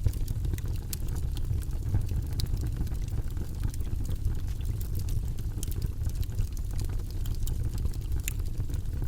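Campfire crackling with scattered sharp pops and snaps over a steady low rush.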